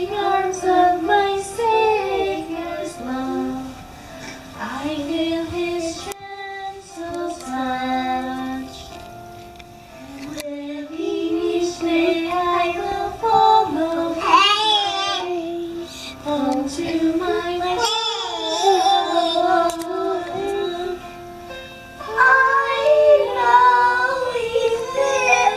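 Children singing a song together with a woman.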